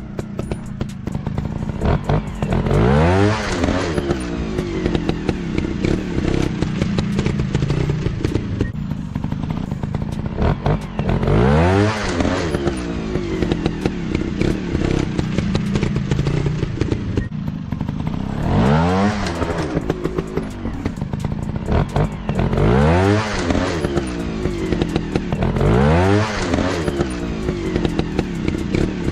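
Dirt bike engines revving hard off-road, the pitch sweeping sharply up and falling back about six times, with clattering knocks and clicks between the revs.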